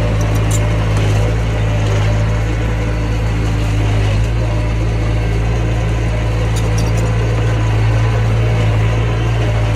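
Diesel engine of a mini bulldozer running steadily at constant speed, with a few faint high clinks about half a second in and again near the seven-second mark.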